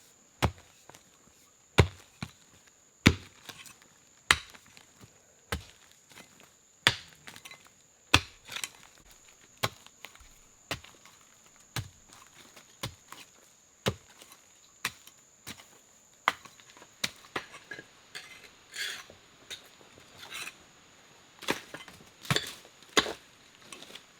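Wood being chopped with a blade, sharp single strokes at a steady pace of about one every second and a quarter, with a faint steady high tone behind them.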